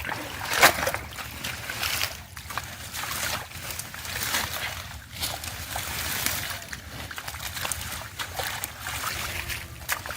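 Shallow river water splashing and sloshing as people work through it with their hands, in irregular splashes with the loudest about half a second in.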